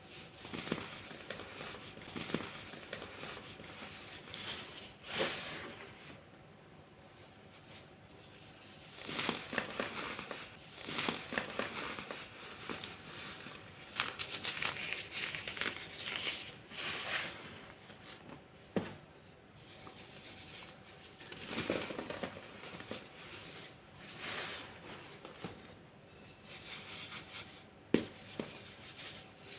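Hardened, dyed baking soda crunching and crumbling in irregular bursts of crackling, with a single sharper snap near the end.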